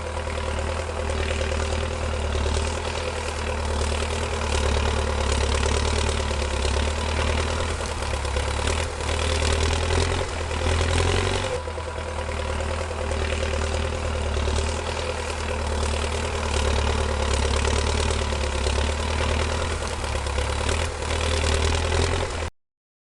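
Tractor engine sound running steadily at a low idle-like pace, cutting off abruptly near the end.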